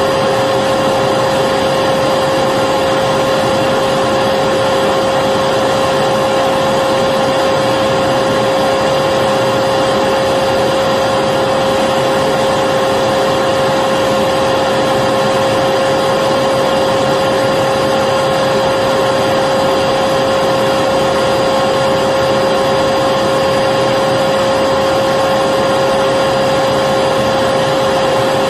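Vacuum cleaner motor running steadily, a constant whooshing hum with a high whine on top, unchanging throughout.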